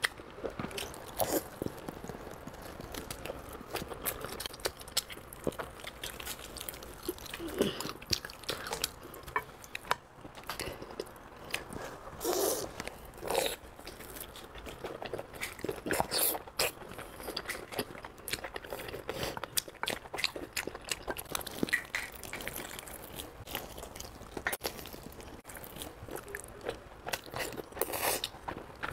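Close-up eating sounds of a person biting and chewing meat off braised pork ribs, with irregular sharp smacks and crunches.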